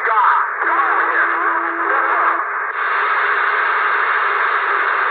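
CB radio receiver on channel 19 putting out static hiss through its speaker, with faint garbled voices and a steady whistle-like tone for about the first two seconds, then even static.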